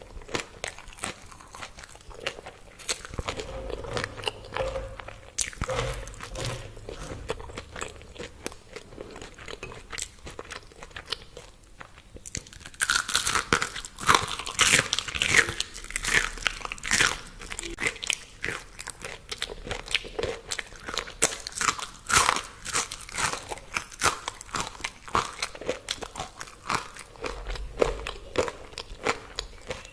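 A person biting and chewing crispy fried food, a run of crunchy bites; the crunching gets louder and denser about twelve seconds in.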